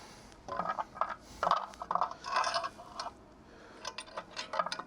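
Loose metal bolts clinking and rattling against each other as they are handled and sorted, in a run of short, irregular clinks.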